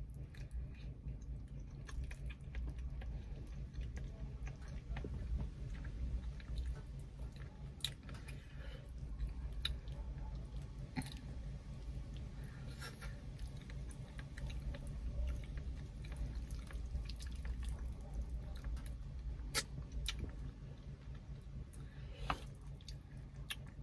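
Close-up chewing and wet mouth clicks of someone eating soft stewed fish and rice by hand, with scattered short sharp clicks. A steady low hum runs underneath.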